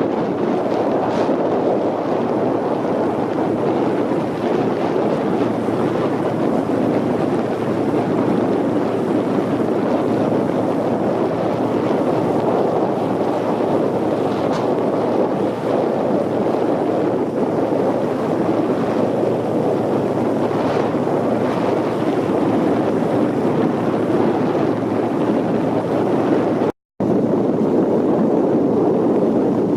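Steady rushing noise of wind buffeting the microphone over open water, with no voices, cutting out for a moment about three seconds before the end.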